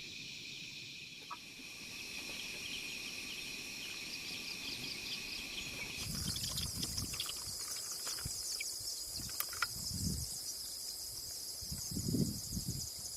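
Insects chirring in a steady high drone; about six seconds in the drone changes to a higher pitch. Soft low thuds come and go underneath.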